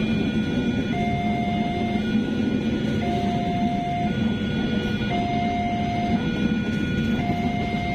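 A passenger train's carriages roll past on the rails with a steady, heavy rumble. Over it, a level-crossing warning alarm sounds two tones in turn, switching about once a second.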